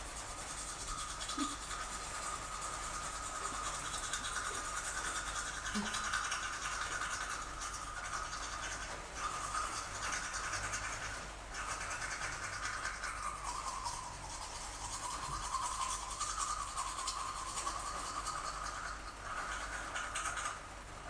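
Electric toothbrush buzzing steadily, with a high hiss behind it. Its pitch dips for a moment about two-thirds of the way through, and the buzz breaks off briefly twice before that.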